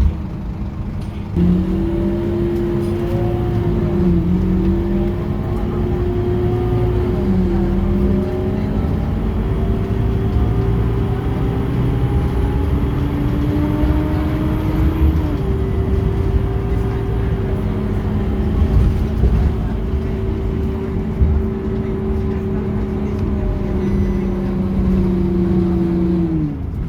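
Scania K230UB city bus's diesel engine pulling hard as the bus accelerates. The note dips briefly twice in the first several seconds as the automatic gearbox shifts up, then holds steady under load with a rising transmission whine. Near the end the engine note drops away as the driver eases off.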